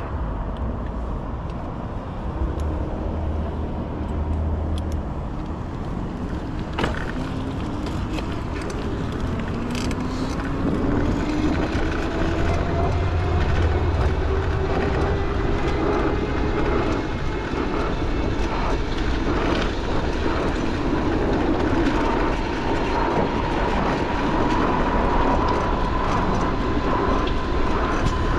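Street traffic noise with wind on the microphone, and from about eight seconds in an electric streetcar's traction motors whining as it pulls away, the whine climbing slowly and steadily in pitch. A single sharp click comes about seven seconds in.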